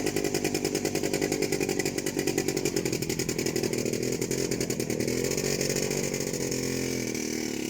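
Small off-road vehicle engine running with a rapid, even buzzing pulse. Its pitch shifts a little past the middle, and it fades slightly near the end.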